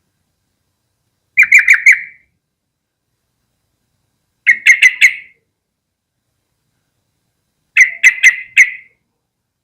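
Yellow-vented bulbul calling in three short bursts of about four quick, chattering notes each, a few seconds apart.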